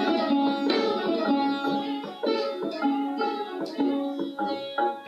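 Indian plucked string instrument playing a melody in Raag Kirvani: a run of single plucked notes, each ringing on after it is struck.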